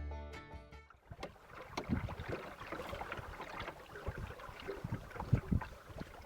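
Water slapping and knocking against a small boat's hull, with irregular splashes and a few heavier low thumps. The tail of fiddle music fades out in the first second.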